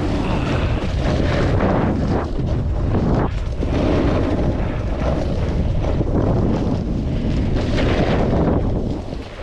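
Heavy wind buffeting the microphone of a snowboarder's POV camera while riding, mixed with the steady hiss and scrape of the snowboard sliding over snow; it eases off just before the end.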